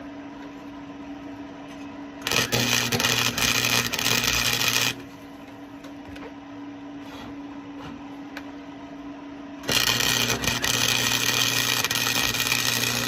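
Flux-core wire welder arc crackling and sizzling in two runs on a steel exhaust pipe, the first about two and a half seconds long, the second about four, over a steady low hum. The second run melts through the thin pipe wall.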